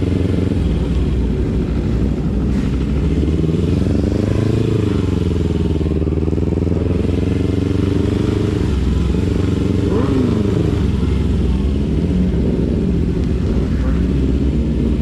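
Motorcycle engine running under the rider, its pitch dipping and rising a few times with throttle changes.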